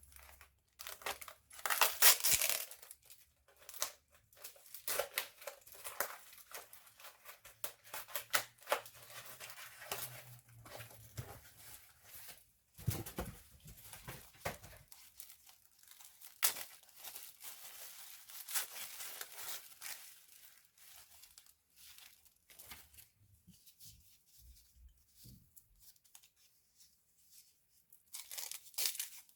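Irregular rustling, scraping and small clicks of hands working on laptop parts, with the loudest burst about two seconds in.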